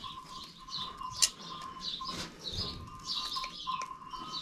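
A small bird chirping over and over, about two short high notes a second, over a steady thin tone. A single sharp click about a second in.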